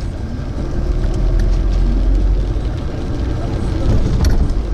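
Car engine and road noise heard from inside the cabin while driving, a steady low rumble, with a short click about four seconds in.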